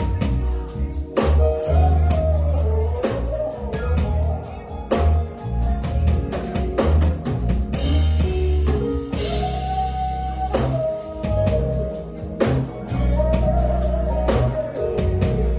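Live gospel band playing with drum kit, electric bass and guitar, with regular drum hits and a cymbal wash about eight seconds in.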